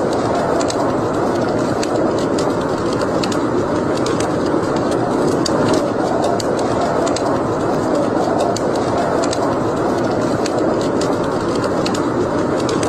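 Wood fire burning in a fireplace: a steady rushing noise from the flames, with scattered sharp crackles and pops from the burning wood.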